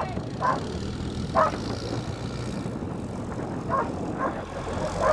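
Redneck roller coaster's engine running steadily as it is driven, with a dog barking a few times.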